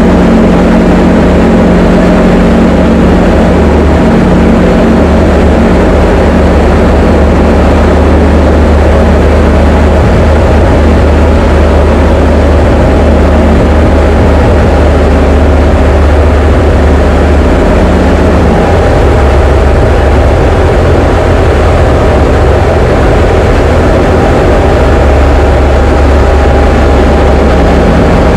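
Diamond DA20 light aircraft's piston engine and propeller droning steadily in flight. The engine note shifts slightly about two-thirds of the way in.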